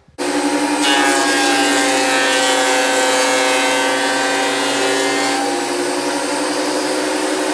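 Makita thickness planer starting abruptly and running with a loud, steady whine. From about a second in until about five seconds in, a rougher hiss rides on top as a board feeds through the cutterhead.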